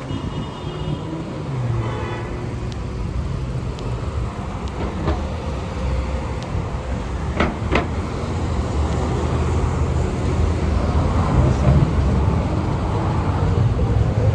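Road traffic, with a large vehicle's engine running low and growing louder as it approaches. Two short sharp clicks come about halfway through.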